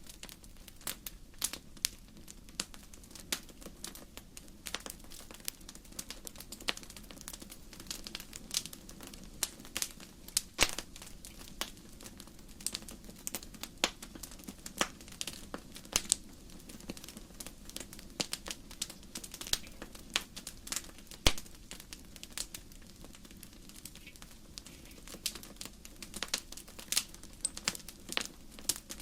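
Firewood burning in a fireplace, crackling: irregular sharp pops and snaps, several a second, a few much louder than the rest, over a faint steady low rush.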